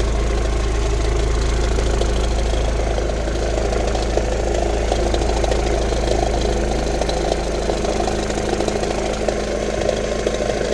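Car engine idling with a rapid, steady knocking tick. The owner fears it is rod knock but hopes it is an exhaust leak or a loose plastic part.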